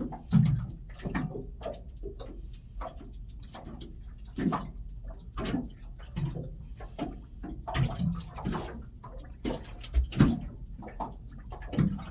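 Water slapping and knocking against the hull of a small aluminium boat, in irregular hollow slaps about once a second over a steady low rumble.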